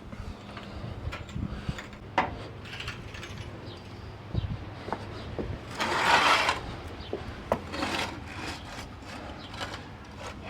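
Scattered knocks and short scrapes of hands-on work while the truck is jacked up onto homemade blocks, with one louder scrape of about half a second a little after six seconds in.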